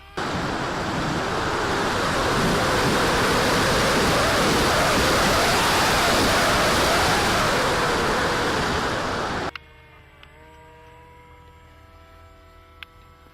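Heavy wind rushing on the microphone for about nine seconds, stopping abruptly. The RC model plane's motor whine is left, faint and steady, with its pitch shifting slightly near the end.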